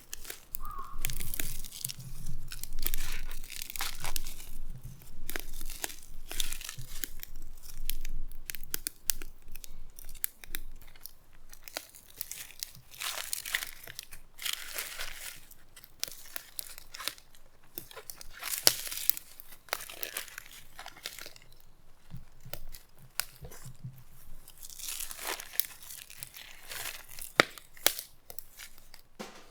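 Fresh corn being husked: dry husks torn off the ears in repeated tearing and crinkling strokes.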